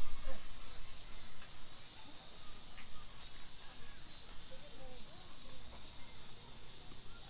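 A steady, high-pitched drone of insects, with faint distant voices.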